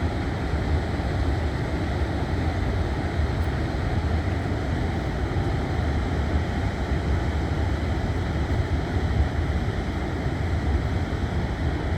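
Steady, loud rush of a large waterfall, Ohiopyle Falls, with most of its weight in the low end.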